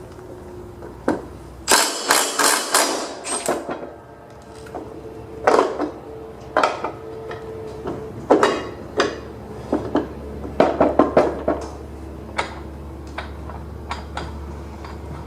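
Hand socket ratchet clicking in short runs of strokes, with light metal knocks, as the blade bolt on a lawn tractor mower-deck spindle is tightened.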